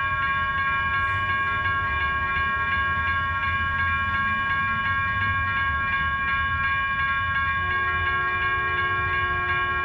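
Railroad crossing warning bells ringing steadily over the low rumble of a Caltrain passenger train at the crossing. A second, lower-pitched tone joins near the end.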